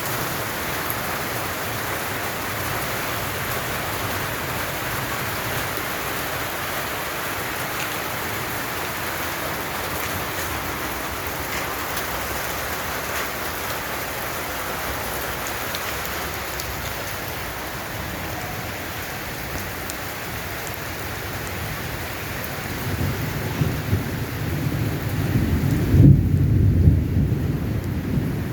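Rain falling steadily. About 23 seconds in, a low rumble of thunder builds, loudest a few seconds later.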